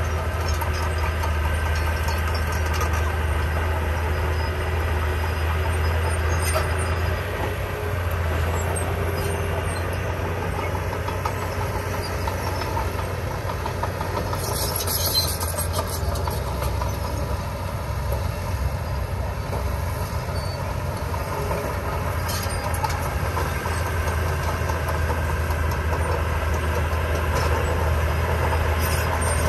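Heavy earthmoving machinery's diesel engine running steadily under work, a continuous low drone. A brief high hiss comes about halfway through.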